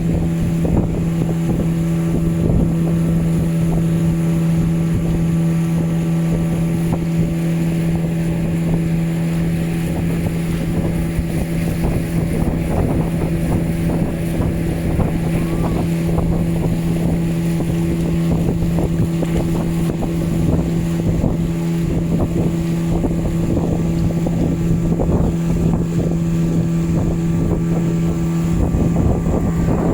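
Motorboat engine running at a steady speed, with a constant hum, while wind buffets the microphone.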